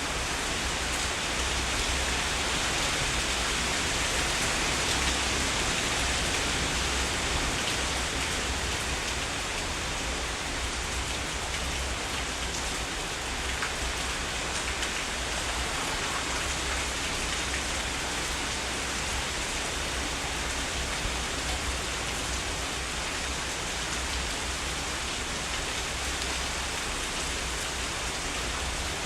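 Steady heavy rain falling, an even hiss with fine patter of drops on surfaces.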